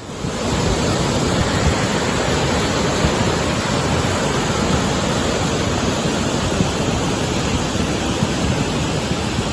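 Rushing floodwater: a loud, steady, unbroken rush of water.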